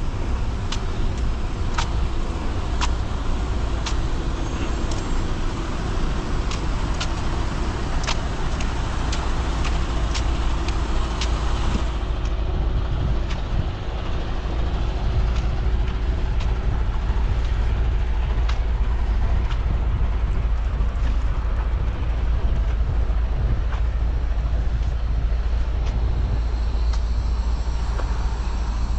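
Road vehicle running at speed: a steady low rumble with road noise, and light rattling clicks through the first twelve seconds that then die away.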